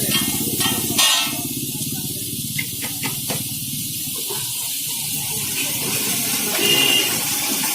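Steady hissing and sizzling of cooking on a street-food stall's stove, with a few sharp clicks near the middle.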